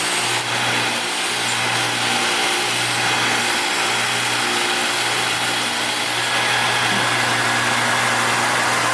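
Electric power tool spinning a wire brush wheel against metal motorcycle parts, stripping grime to a polish: a steady motor hum under an even, continuous scrubbing noise.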